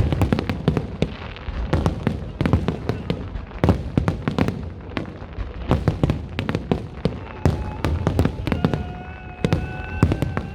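A fireworks display: a dense, rapid run of bangs and crackles. From about three-quarters of the way in, a steady high tone sounds alongside the bangs.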